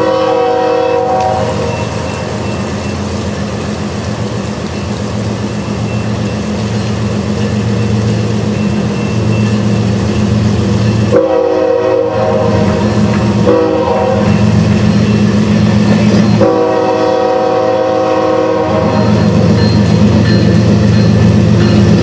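Diesel freight locomotive's multi-chime air horn: one short blast, then about ten seconds later a long, a short and a longer blast, the pattern sounded for a grade crossing. Under the horn runs the steady low drone of the diesel engines, growing louder as the train approaches.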